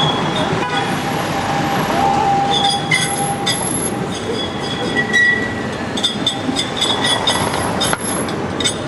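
AntRay tram wheels squealing against the rails through a tight 90-degree curve: high-pitched, shrill tones that set in about a third of the way through and keep coming and going, over steady rumbling street noise.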